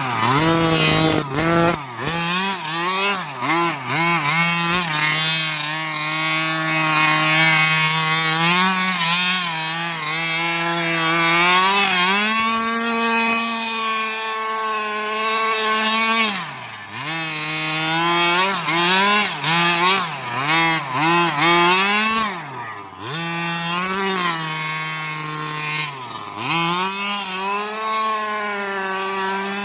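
30cc two-stroke gas engine of a 1/5-scale Redcat Rampage XR Rally RC car with an aftermarket JetPro tuned pipe, revving up and down continuously under throttle. Three times the revs drop sharply and then climb again.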